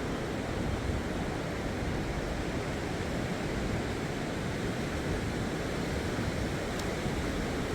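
Steady rushing noise of sea surf and wind, with wind rumbling on the microphone.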